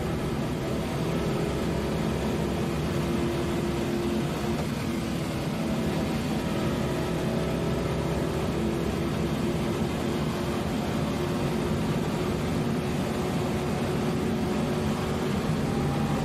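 Holden Torana SL/R 5000 race car's V8 engine heard from inside the roll-caged cabin, running at a fairly steady pitch under way on track.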